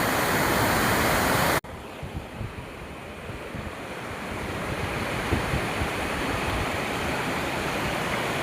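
Stream in spate, its water rushing loudly and steadily. An abrupt break about one and a half seconds in leaves a quieter, lower rush, with wind buffeting the microphone.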